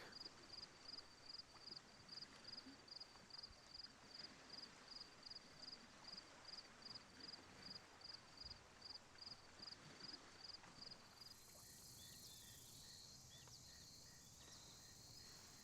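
Faint cricket chirping in a steady rhythm, a single high note repeated about three times a second. About eleven seconds in, the chirping stops and gives way to a fainter high insect buzz with a few small chirps.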